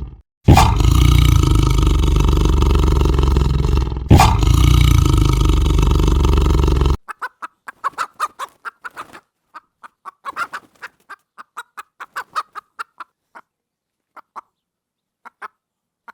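A loud, steady rushing noise with two abrupt breaks, which cuts off suddenly about seven seconds in. A bird follows with a rapid series of short, sharp calls that grow sparser and stop near the end.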